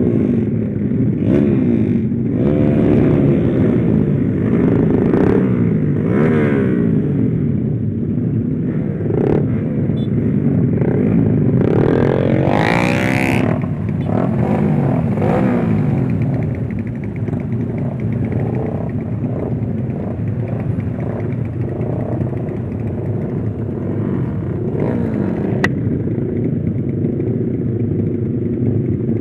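Small motorcycle engine under hard acceleration, its revs climbing again and again through the gears in the first half, then running more steadily. Heard from the rider's on-bike mic with wind noise.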